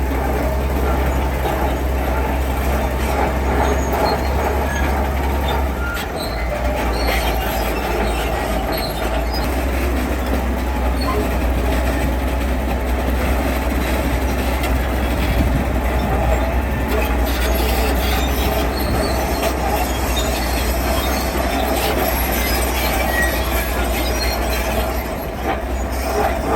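Heavy construction machinery running steadily: a diesel engine's low, continuous drone under a metallic squealing, grinding clatter, like steel tracks or stone scraping on steel.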